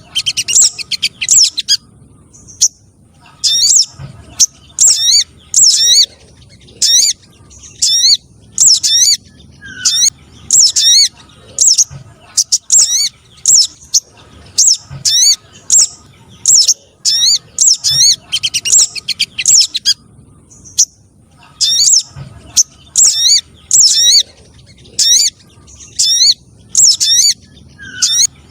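Recorded spiderhunter and sunbird calls played as a bird-trapping lure: bursts of short, sharp, high chirps, each burst under a second, repeating about once a second with brief gaps.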